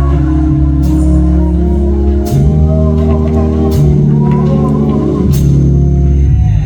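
Church organ playing sustained chords over a bass line that moves to a new note every second or two, with a few drum-kit strikes.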